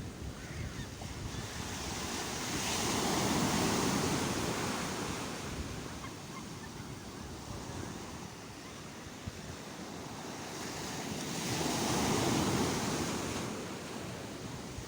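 Sea waves washing onto the shore, two waves swelling and breaking about nine seconds apart, about three and twelve seconds in, with a steady rush of surf between them. Wind buffets the microphone throughout.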